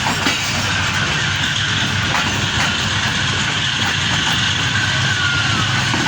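Moving passenger train heard from on board: steady rumble and rush of the coach running along the track, with a few faint knocks and a brief high squeal near the end.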